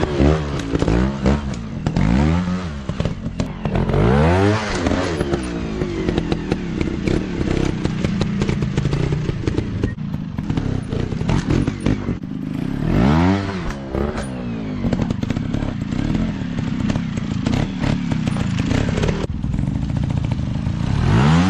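Dirt bike engines running and revving in repeated rising-and-falling bursts, over a steady engine drone with a lot of clatter.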